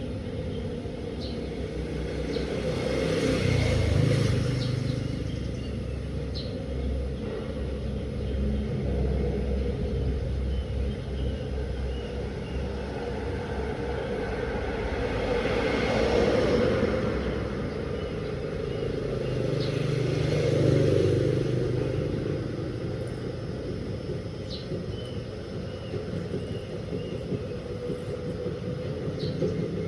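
A large 16 kg DELTA washing machine running through its cycle: a steady low rumble, swelling louder three times and fading back.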